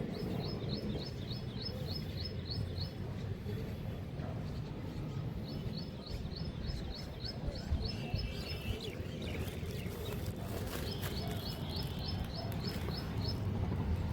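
A bird calling in three runs of about ten quick, high, repeated notes, over a steady low outdoor rumble.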